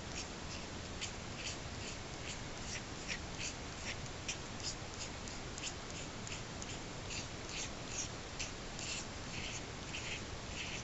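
Magnesium fire-starter block being scraped with a steel edge, shaving magnesium into tinder: a run of short, rhythmic scrapes, about two to three a second, with longer, stronger strokes in the second half.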